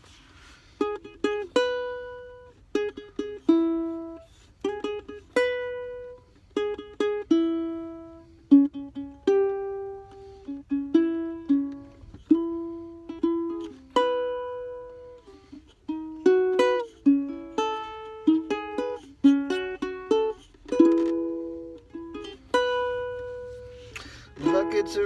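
Solo ukulele playing a song's instrumental introduction: plucked chords and single notes that ring out and die away one after another at an unhurried pace.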